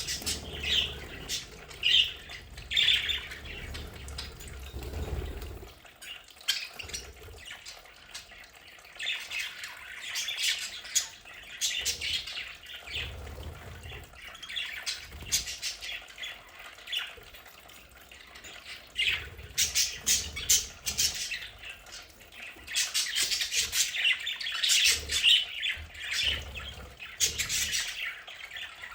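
A flock of budgerigars chattering and squawking, many short high calls in irregular bursts, denser in the second half.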